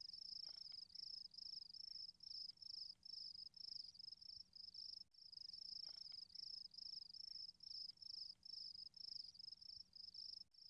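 Cricket chirping: a faint, high-pitched chirp repeating steadily about three times a second.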